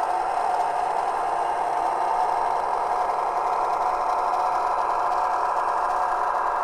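Diesel railcar engine sound from the DCC sound decoder of a KATO HO-scale KiHa 110 model, played through the model's small onboard speaker: a steady engine drone, thin and with little bass.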